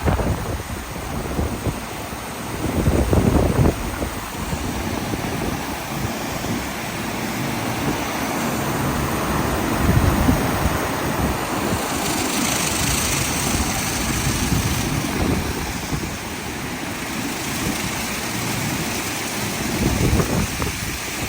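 Automatic car wash at work on a car: a steady rush of spraying water and rotating brushes, with heavier low swells now and then and a brighter, hissier spray about twelve seconds in.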